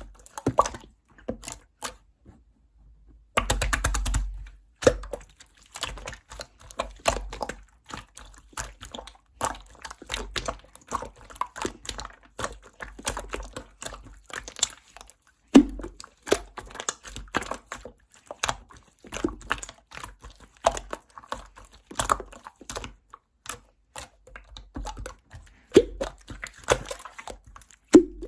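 Slime being worked by hand, with many rapid, crackling clicks and pops from air bubbles squeezed in the slime. There is a short pause about two seconds in, followed by a denser patch of squishing.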